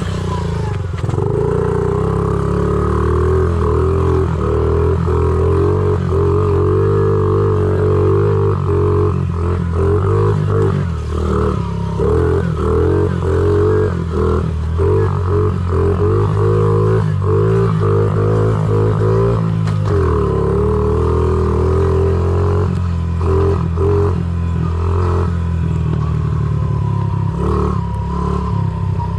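Honda CRF50 pit bike's small single-cylinder four-stroke engine running under throttle, its pitch rising and falling as the throttle is worked, with short clattering knocks from the bike over rough trail. The engine note drops briefly about two-thirds of the way through, then picks up again.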